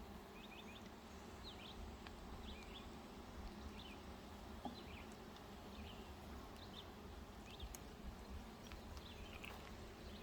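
Faint steady buzzing of honeybees around an opened hive, with short bird chirps scattered throughout and a low rumble underneath.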